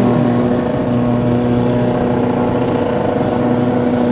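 Pro Street drag-racing motorcycle engine running loud at a steady, held engine speed.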